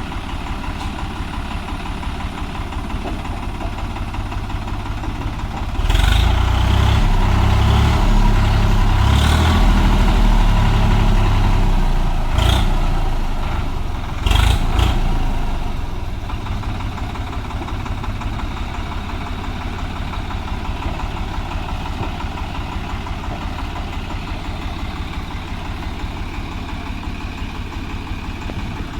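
Tractor diesel engine idling, revved up hard about six seconds in and held for about ten seconds, then settling back to a steady idle.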